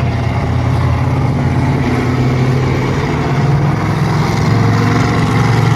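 Monster truck's engine running steadily with a deep, even drone.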